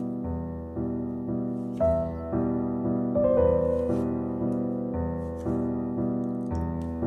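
Piano music, with notes and chords struck at a steady pace of about two a second.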